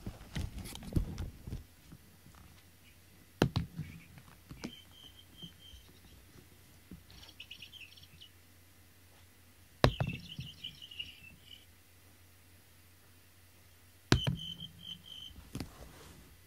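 A bird chirping in four short bursts of rapid, high notes. Three sharp knocks come before the second, third and fourth bursts, about 3, 10 and 14 seconds in; these are the loudest sounds.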